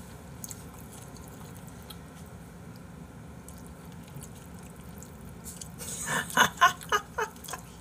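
Eating jokbal (braised pig's trotters): faint chewing with small clicks, then a quick run of about half a dozen short, loud sounds about six seconds in.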